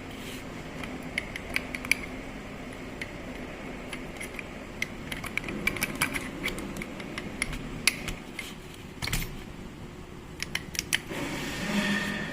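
Irregular metallic clicks and clinks of small metal parts and tools being handled while a rotary hammer drill is worked on, over a low steady background hum.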